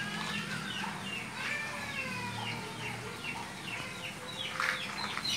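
Many birds chirping and calling in short, overlapping, downward-sliding notes over a low steady hum, with a brief noisy burst near the end.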